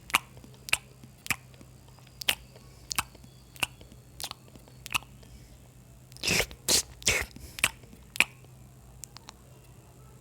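Close-miked mukbang chewing: wet mouth smacks and clicks about every half to three-quarters of a second, with a louder run of crunchier bites about six to seven seconds in, while a mouthful of rajma, rice and raw onion is eaten. A faint steady low hum sits underneath.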